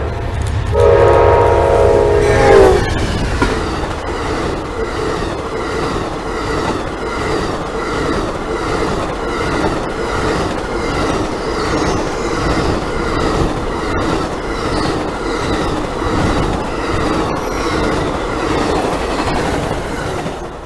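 Amtrak passenger train's diesel locomotive horn sounding one chord blast of about two seconds, about a second in. Then the train's cars run past the crossing as a steady rumble with wheels clicking over the rail joints. The rumble drops away at the end as the last car clears.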